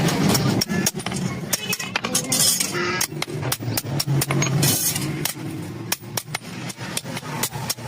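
Hammer striking iron over and over, several irregular blows a second.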